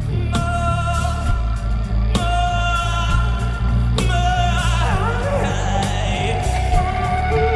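Live rock band playing: electric guitar holding sustained notes that bend in pitch, over heavy bass and drums with crashes about every two seconds, and singing.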